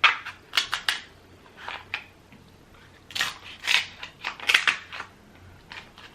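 Close-miked eating sounds from a seafood boil: seafood shells cracked and peeled, and wet chewing and smacking. They come as an irregular run of short, sharp crackling bursts with quiet gaps between.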